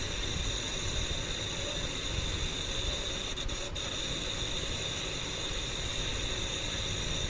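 Tractor diesel engines running in a steady rumble, with two brief clicks a little past the middle.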